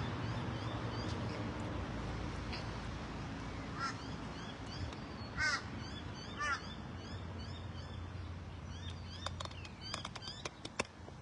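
Wild birds calling: small birds chirp over and over, and three louder, harsher calls come about four, five and a half and six and a half seconds in, over a steady low rumble. Several sharp clicks come near the end.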